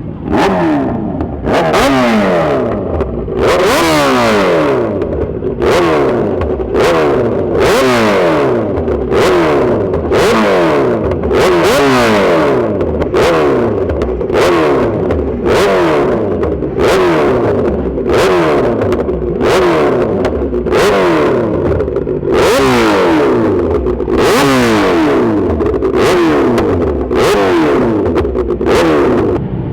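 A sportbike engine revved hard over and over, about one throttle blip a second, the pitch dropping back after each blip.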